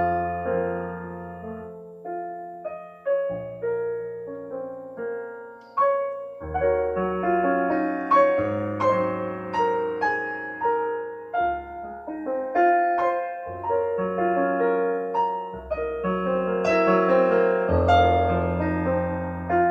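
Solo piano playing a slow piece: held bass notes that change every second or two under chords and melody notes that strike and fade.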